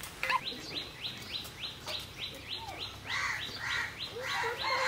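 Birds calling: one repeats a short rising chirp about three times a second, and other chirps and warbling calls join in over the second half.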